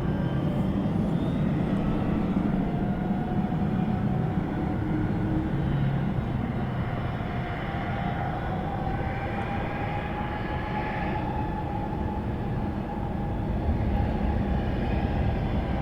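Jet airliner engines running steadily on the runway, a loud even rush with a faint whine that slowly rises in pitch.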